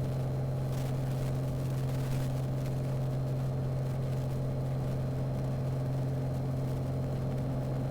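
Piper Arrow's single piston engine and propeller droning steadily at climb power just after takeoff, as heard inside the cabin.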